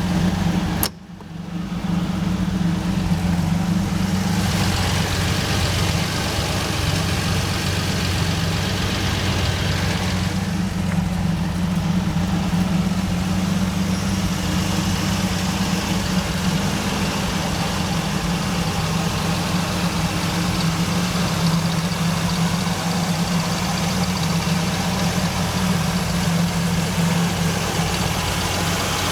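V6 car engine running steadily at idle, with a brief click and dip in level about a second in.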